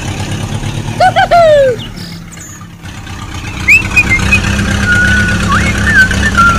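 Tractor engine idling steadily, with birds chirping over it. The engine drops away briefly about two seconds in, and a loud run of falling squeaks comes about a second in.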